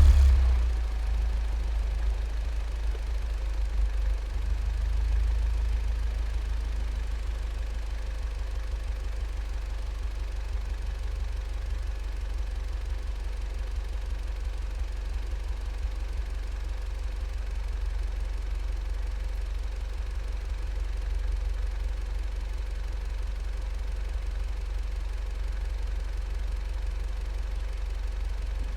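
Volkswagen Golf 7 GTI's turbocharged 2.0-litre four-cylinder idling through a Cox aftermarket exhaust just after starting. It eases down from the start-up flare in the first second, swells slightly a few seconds in, then settles to a steady, deep idle.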